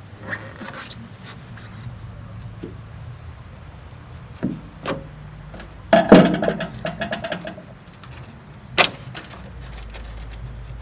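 Small trim covers being prised and pulled off a VW Polo 86 during its strip-down: scattered clicks and knocks, with a louder clatter about six seconds in and a sharp snap near nine seconds.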